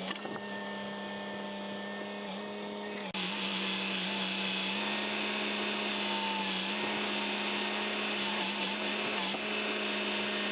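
A motor running steadily with a pitched drone and a whine above it. It becomes brighter and slightly louder about three seconds in, with small dips in pitch now and then.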